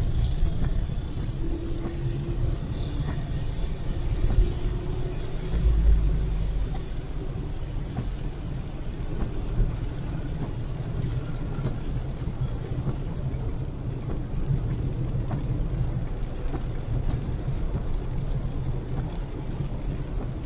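A car driving on a highway: steady low road and engine rumble, swelling briefly a few times.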